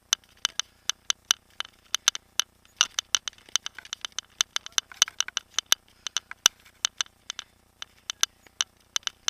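Mountain bike rattling over a rough trail: a run of sharp, irregular clicks and knocks, several a second, with a few louder ones.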